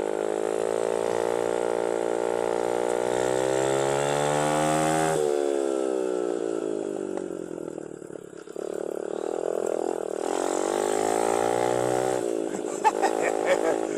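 A 110cc mini dirt bike's small single-cylinder engine running under throttle, its pitch climbing for about five seconds, then dropping sharply as the throttle is closed. It picks up and climbs again a few seconds later, and eases off near the end.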